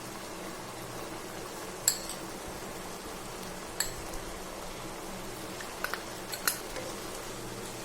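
A metal spoon clinks against a cooking pan several times while the food is stirred. The sharpest clink comes about two seconds in, with a few lighter ones later, over a steady low frying hiss.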